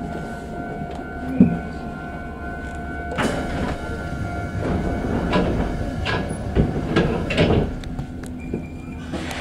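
Kotoden electric train standing at a station, heard from the cab: a steady hum, then a run of knocks and clunks from about three seconds in, and a burst of air hiss near the end.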